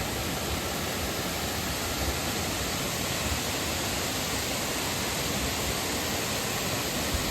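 Millaa Millaa Falls, a large waterfall, pouring into its pool: a steady, even rush of water noise.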